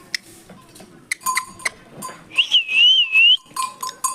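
Green parrot giving one wavering whistle about a second long, midway, among a scatter of sharp clicks.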